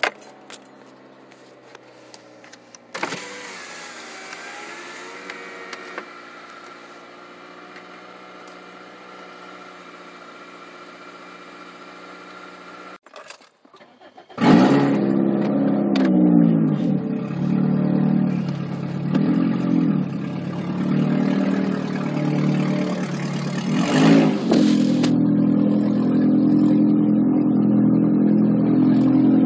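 2005 Toyota Corolla LE's 1.8-litre four-cylinder engine heard from inside the cabin, first running quietly at idle through its newly installed exhaust. After a short break about halfway through, it runs much louder with the catalytic converter missing, its pitch rising and falling a few times before settling into a steady drone.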